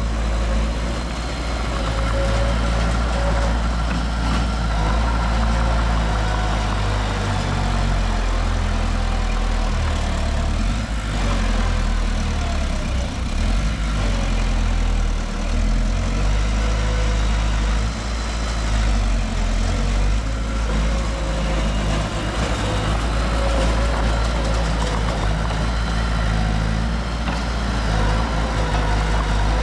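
Heavy diesel engine of construction machinery running steadily, deep and low-pitched, with no marked revving.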